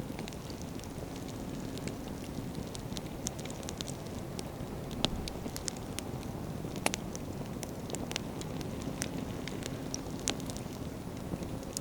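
Wood campfire burning: a steady low rumble with frequent sharp crackles and pops from the firewood. Two of the pops, about five and seven seconds in, are louder than the rest.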